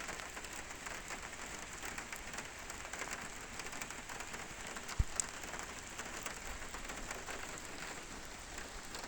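Steady rain falling, a constant hiss dotted with many small drop ticks, with one short low thump about five seconds in.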